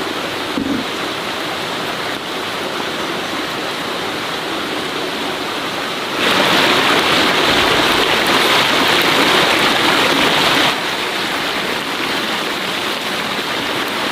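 A steady rush of falling water. It gets clearly louder about six seconds in and drops back about four and a half seconds later.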